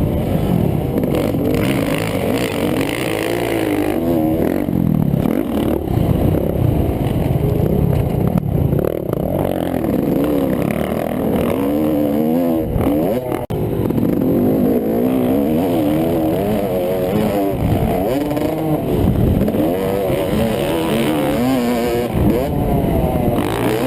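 Two-stroke dirt bike engine, a 2012 Yamaha YZ250, heard from its own onboard camera, revving up and down over and over as the rider works the throttle and shifts around a motocross track. The sound drops sharply for a moment about halfway through.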